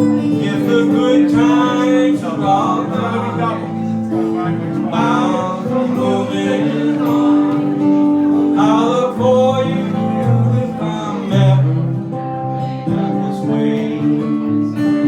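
Live acoustic folk music: a strummed acoustic guitar under a wavering lead melody that comes in phrases.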